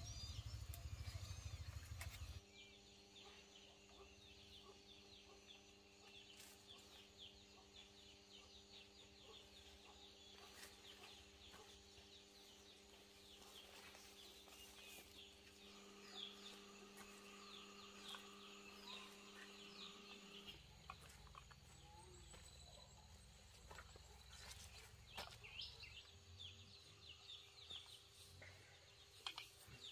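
Faint bird calls and chirps. A steady low hum runs underneath and stops about two-thirds of the way through.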